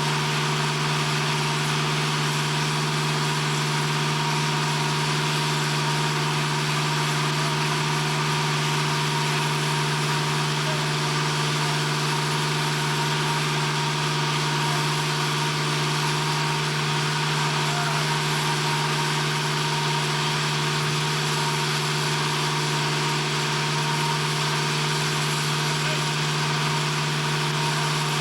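A steady, unchanging low hum with a constant hiss over it, like machinery running continuously.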